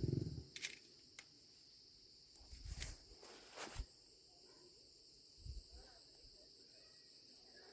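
Insects chirring faintly and steadily, with a few soft knocks and clicks of handling scattered through.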